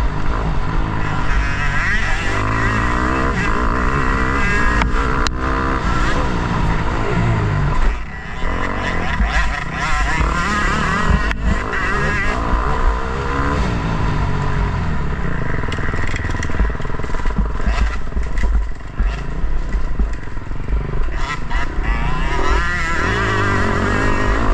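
Motocross bike engine at race pace, revving up and down repeatedly as the throttle is worked, briefly dropping away about eight seconds in.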